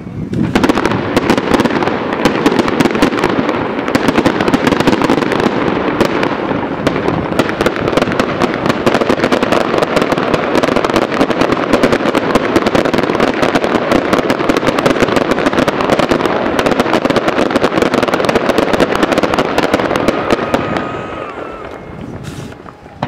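Fireworks going off as a dense, rapid crackle of many small pops, keeping up without a break for about twenty seconds before thinning out near the end.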